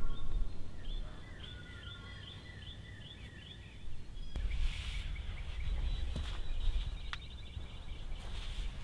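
A songbird sings a quick series of repeated chirping notes, each slurring downward, for the first three seconds or so. From about four seconds in a low rumbling hiss takes over, with a single click near the end.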